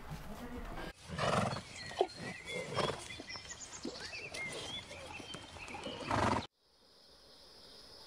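Zebras calling: several loud, harsh, horse-like barking brays. Near the end the calls cut off suddenly, leaving a faint steady high-pitched hum.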